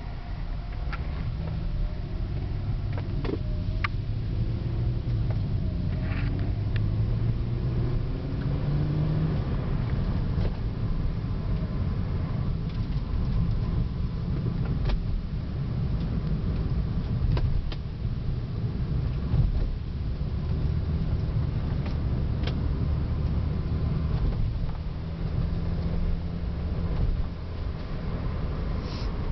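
A 2005 Mercedes-Benz SLK350's 3.5-litre V6 running under way, with road noise, heard from inside the car. The engine note rises as the car accelerates over the first several seconds, then holds steady at cruise.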